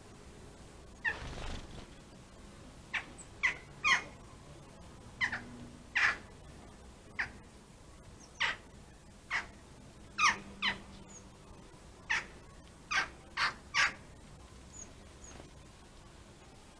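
A bird calling over and over: about fifteen short, sharp calls, each sweeping quickly downward in pitch, some single and some in quick runs of two or three.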